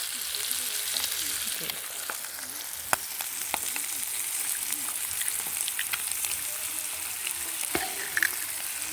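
Food sizzling in a hot frying pan: a steady hiss with scattered pops and crackles.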